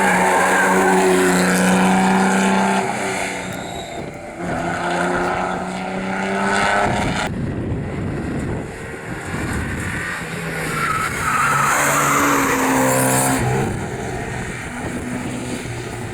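Rally cars at speed on a special stage. For the first few seconds one engine holds high, near-steady revs. After a sudden cut about seven seconds in, another car's engine revs up and down through the gears, with tyre squeal.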